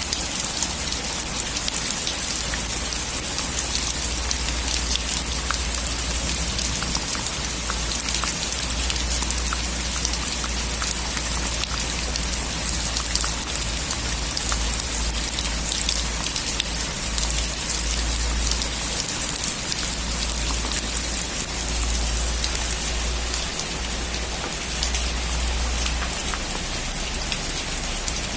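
Steady heavy rain on a metal roof, a dense patter with many small drop ticks, over a low rumble that swells and fades.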